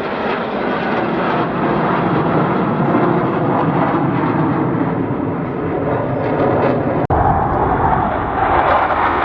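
Loud, steady jet noise from Blue Angels F/A-18 jets flying their display. There is a momentary dropout about seven seconds in, after which the sound is deeper.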